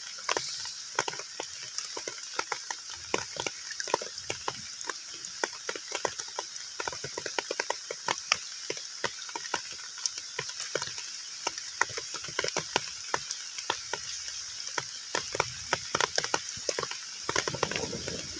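Heavy rain falling on a pond's surface: dense, irregular plinks and splats of individual drops hitting the water over a steady hiss.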